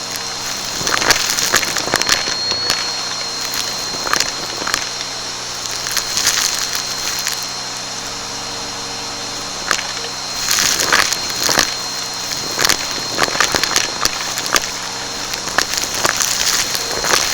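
Vacuum cleaner running with a steady motor hum and a thin high whine, crackling and crunching irregularly as it picks up dry debris off the floor.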